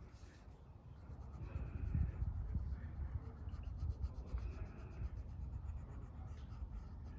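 Coloring on paper: scratchy back-and-forth scribbling strokes that come in runs, over a steady low rumble.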